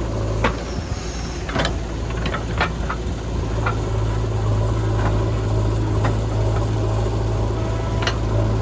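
Heavy diesel engine running steadily at an even low pitch, with several short, sharp knocks and clanks scattered over it.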